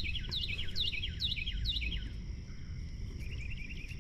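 Wild birds calling: a series of quick downward-sweeping whistled notes, about two a second, over a fast chirping trill, stopping about halfway through, with a short chirping run again near the end. A steady high-pitched whine and a low rumble of background noise run underneath.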